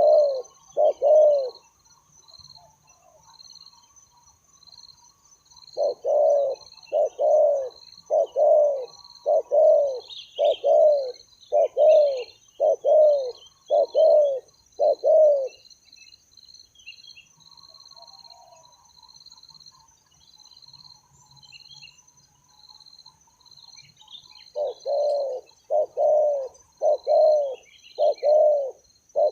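Spotted doves cooing: runs of repeated low coos, each dropping in pitch, about one a second. There are a few at the start, a long run from about six seconds in, and another from about twenty-five seconds in, with a faint steady high-pitched buzz underneath.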